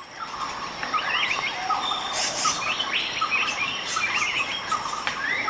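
Tropical forest ambience: many birds chirping in short, quick, up-turned notes over a steady high-pitched buzz of insects.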